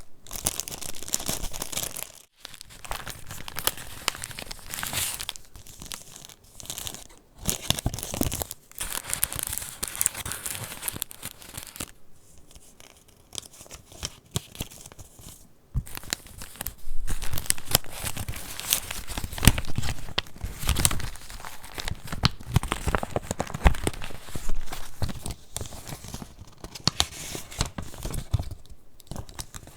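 Paper pages of a handmade junk journal being turned and handled: irregular rustling and crinkling, louder from about halfway through.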